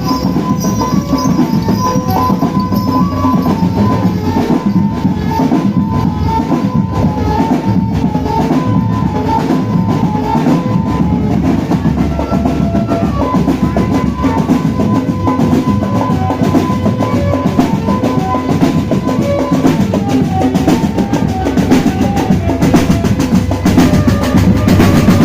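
Marching drum band playing: fast, dense snare and bass drum rhythms with short high melodic notes on top. The music breaks off suddenly at the very end.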